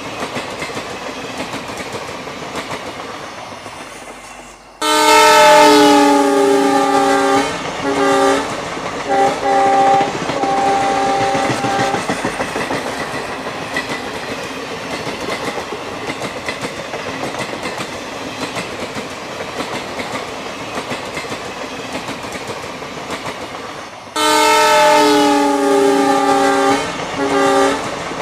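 Train running with steady wheel clatter, and a multi-tone locomotive horn: a long blast about five seconds in followed by several short toots, then another long blast with short toots near the end.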